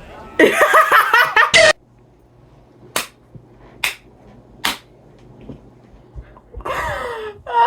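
A loud voice yelling for about a second and cutting off abruptly, then three short, sharp hissing snaps about a second apart, and another voice starting near the end.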